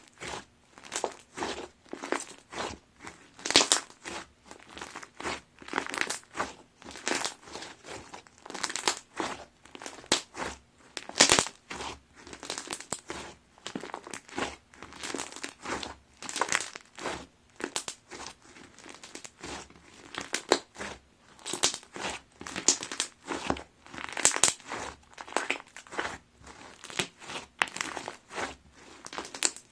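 Iceberg slime being squeezed and pressed by hand, its dried, hardened top crust crunching and crackling. The crackles come thick and irregular, in clusters of louder crunches with short quieter gaps.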